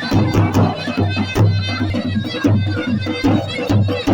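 Kurdish dilani dance music: a shrill wind instrument playing a melody over a steady, regular drum beat.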